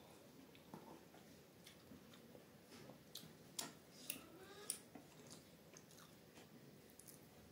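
A person chewing food quietly with the mouth closed, with a few soft, sharp wet clicks in the middle.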